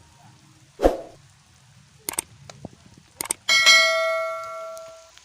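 A dull thump, a few sharp knocks, then a piece of metal struck hard and ringing out like a bell for about a second and a half before it dies away.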